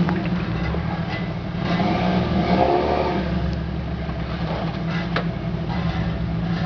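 Jeep engine running steadily, with a few sharp knocks and clunks over it.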